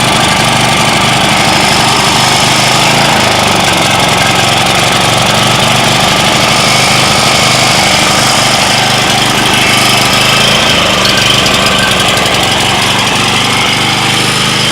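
Portable 5,000-watt generator's small gasoline engine running steadily, fed only by gasoline vapour drawn from the fuel tank into its air intake rather than liquid fuel through the carburettor.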